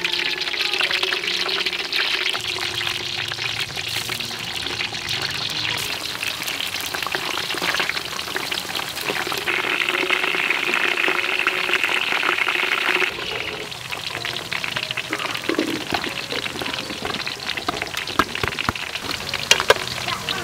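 Slices of breadfruit deep-frying in oil in a metal wok: a steady crackling sizzle. It drops somewhat in loudness about two-thirds of the way through, and a few sharper clicks come near the end.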